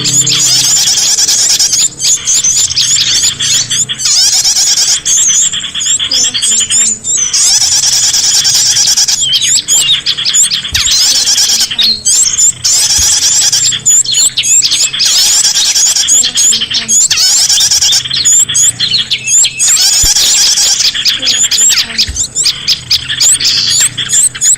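Loud, dense chattering of small songbirds: rapid high-pitched chirps and trills that overlap, broken by short pauses every few seconds. It is a bird-lure recording, played to draw small birds in.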